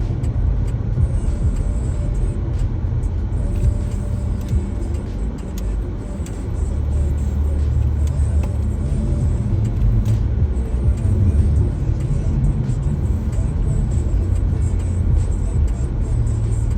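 Steady low rumble of a car, with music playing over it.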